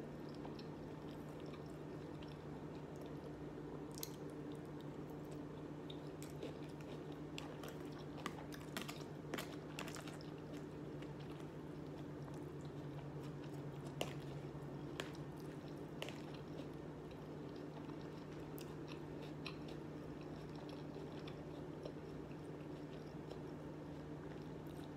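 Close-up chewing and mouth sounds of someone eating spicy garlic shrimp and rice, with scattered clicks of a plastic fork scooping in a plastic takeout bowl, over a steady low hum.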